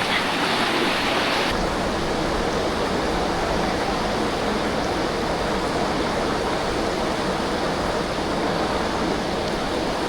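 Rushing water of a mountain waterfall, a steady even rush. A brighter hiss lies over it for the first second and a half, then cuts off abruptly.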